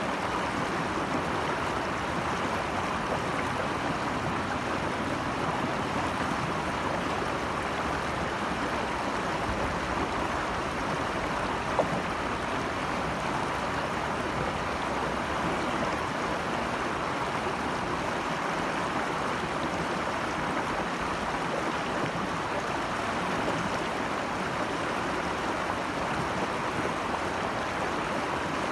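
Flowing stream water rushing steadily and evenly, with one brief click about twelve seconds in.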